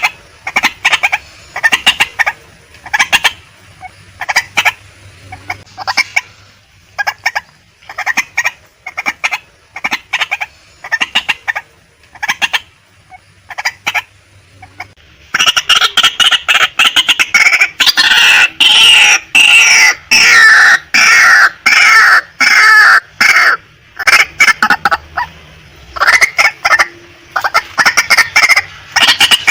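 Female white-breasted waterhen calling: clusters of short, sharp repeated notes, breaking about halfway through into a dense, louder run of overlapping calls with falling pitch that lasts several seconds before returning to the short clustered notes.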